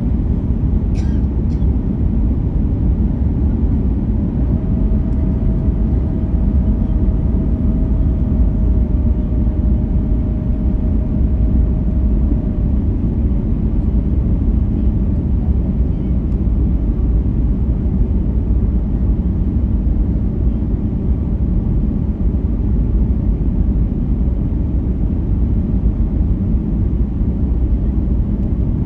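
Airliner cabin noise: a steady low rumble of engines and airflow, with a faint steady hum for several seconds early on and a couple of small clicks about a second in.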